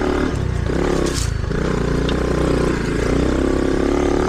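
Mini dirt bike's small engine running on the trail, easing off and picking up again twice as the throttle is rolled off and back on. A brief scraping rush about a second in.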